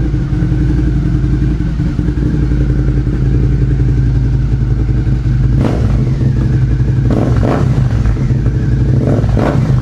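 Suzuki SV650's V-twin engine running through a replica MIVV slip-on muffler with the catalytic converter deleted, idling steadily with a few short louder bursts in the second half, as it is given light revs.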